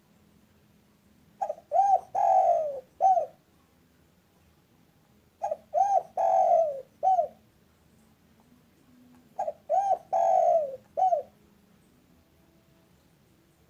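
Spotted dove (tekukur) cooing: three phrases about four seconds apart. Each phrase is two short coos, a longer falling coo and a short closing coo.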